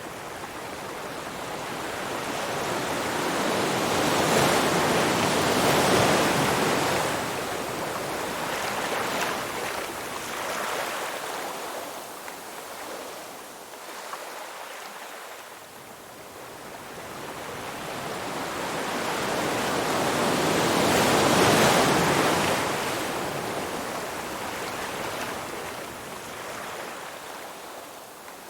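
Ocean surf: waves wash in and draw back in slow swells, two big surges peaking about six seconds in and again past twenty seconds, ebbing between.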